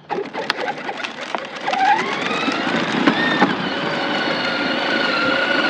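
A child's four-wheeler motor speeding up. Its pitch rises over a couple of seconds, then holds a steady whine, over crackling and clicking from the wheels rolling.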